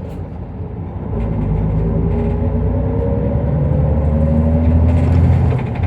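Isuzu Erga Mio route bus's diesel engine pulling away, heard from inside the cabin; from about a second in it gets louder and its pitch rises steadily as the bus accelerates, easing near the end.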